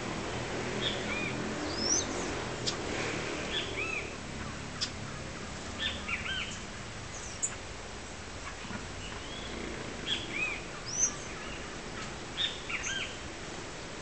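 Small songbirds calling with short, high chirps and arched call notes, scattered every second or so, from several birds.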